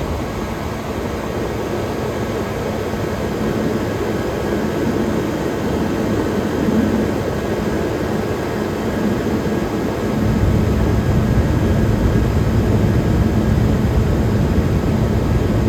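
1978 Comfort-Aire Quietmaster room air conditioner running: a steady rush of air from its six-blade metal fan over the hum of its Tecumseh compressor. The low rumble grows louder about ten seconds in.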